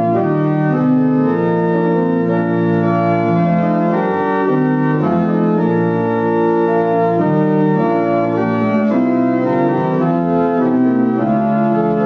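Organ playing sustained chords, a slow hymn-like piece with notes changing every half second or so.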